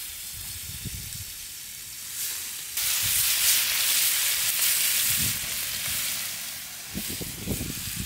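Marinated chicken frying in hot olive oil in a pan, a steady sizzle that jumps much louder about three seconds in as more goes into the pan and eases off a little near the end. A few soft low knocks from handling the food sound through it.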